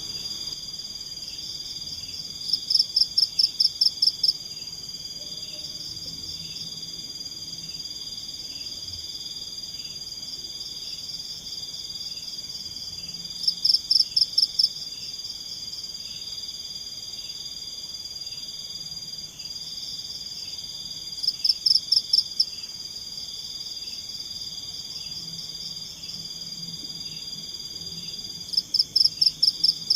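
Forest chorus of insects and frogs. A steady high-pitched insect drone runs under a softer call that pulses about twice a second. Four times, a louder run of rapid pulses lasts a second or two.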